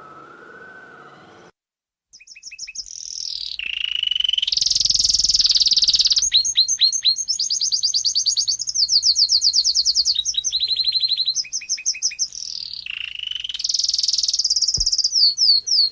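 A small songbird singing fast, high trills and quick runs of chirps, repeated with short pauses. It starts about two seconds in, after a fading electronic tone and a moment of silence.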